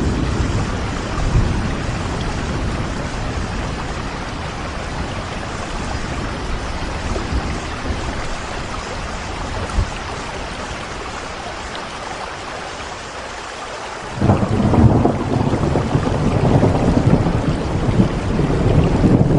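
Steady rain falling, with low rumbles of thunder; a louder rumble comes in suddenly about two-thirds of the way through and carries on.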